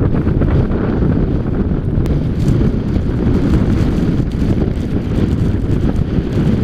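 Strong wind buffeting the microphone, a loud, steady low rumble of wind noise.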